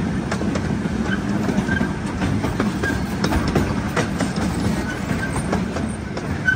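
Zoo ride-on train running along its track, heard from aboard: a steady rumble with the clickety-clack of wheels over the rail joints.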